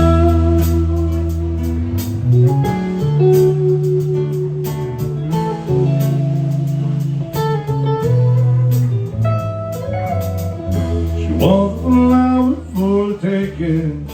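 Country band playing an instrumental passage, with lead guitar lines over steady bass notes and a strong beat.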